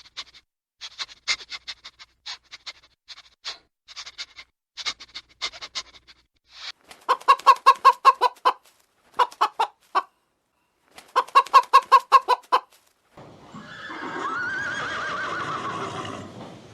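Hens clucking: scattered single clucks, then two quick runs of rapid clucks. Near the end a horse whinnies, its pitch rising and then falling.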